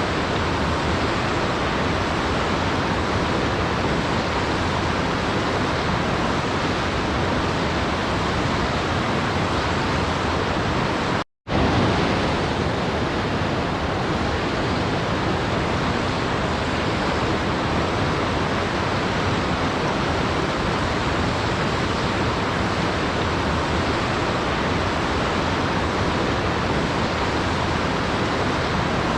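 Steady, even rush of a waterfall, an unbroken full-range wash of falling water with no change in level. About eleven seconds in, the sound cuts out completely for a split second and then resumes just as before.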